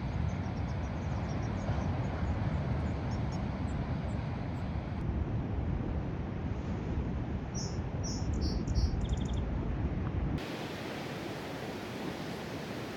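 Small birds chirping and trilling over a steady low outdoor rumble. The chirps are brief and scattered, with a louder cluster and a quick trill near the end. Then the ambience cuts abruptly to a flatter hiss.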